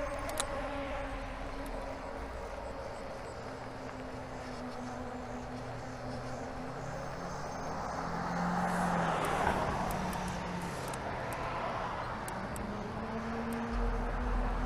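Electric bike riding a trail: the motor whines in several tones that shift in pitch, with rushing tyre and wind noise that swells about halfway through.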